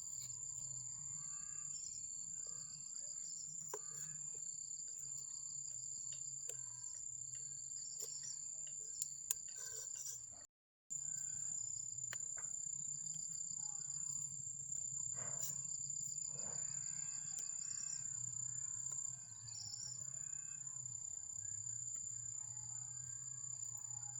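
Crickets or other night insects keeping up a steady, high-pitched shrill, over a low hum and scattered faint clicks and knocks. The sound cuts out briefly near the middle.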